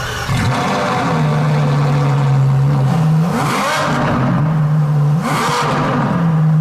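Ducati 1199 Panigale S's Superquadro V-twin, breathing through a full Termignoni exhaust, idling steadily and blipped twice, about three and five seconds in, each rev falling straight back to idle.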